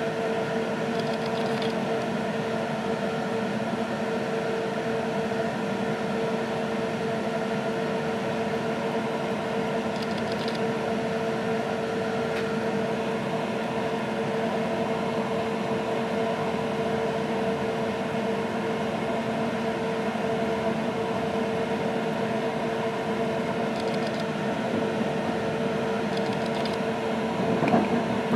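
Steady hum and rumble inside a moving passenger train coach, with one clear steady whining tone running through it. A single short knock near the end.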